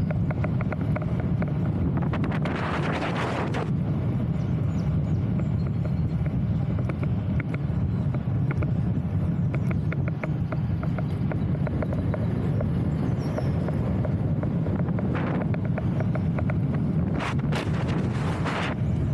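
Steady wind buffeting the microphone, a low dense rumble, with brief gusts swelling about two to three seconds in and again near the end, and faint rapid clicks in the middle stretch.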